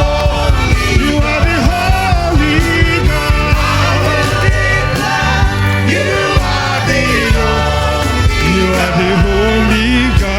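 Live gospel praise music from a church band, with a steady drum beat and bass under singing.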